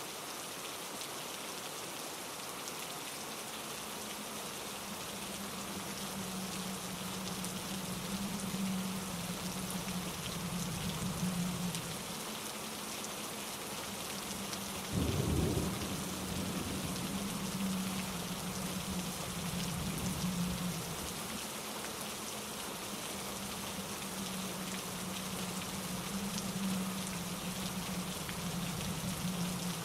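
Steady rain hiss, with low thunder rumbling in and out from about four seconds in and one sharper, louder crack of thunder about halfway through.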